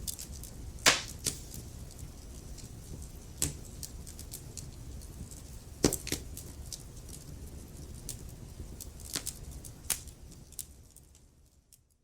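Wood fire crackling: irregular sharp pops and snaps from burning logs, the loudest about a second in and near six seconds, over a low steady rumble. The sound fades away near the end.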